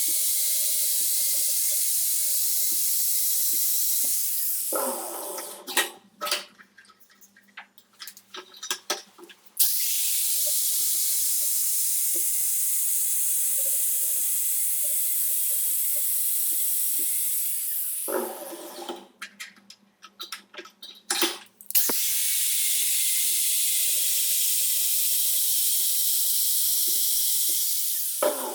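A steady hissing spray that runs in long stretches of several seconds and stops twice. During the breaks there are scattered clicks and knocks.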